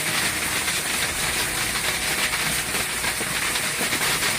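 Hail and heavy rain pelting down hard and without a break, a dense continuous clatter of countless small impacts.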